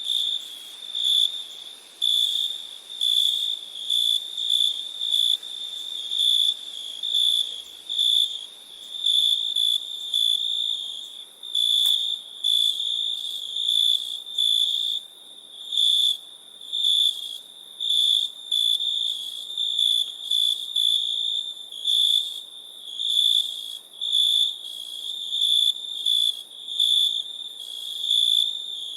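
Crickets chirping: a high trill near 4 kHz that pulses in short repeated bursts, about one or two a second.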